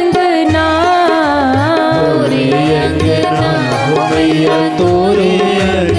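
Devotional bhajan music: a voice singing a melody over steady hand-drum beats.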